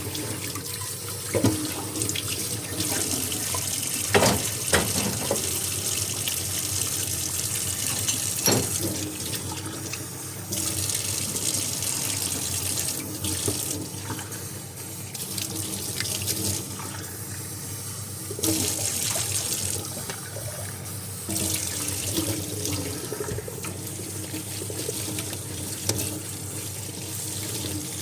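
Tap water running into a kitchen sink while dishes are washed, the flow changing every few seconds as things are moved under it. A few sharp knocks of dishes set against each other come in the first third.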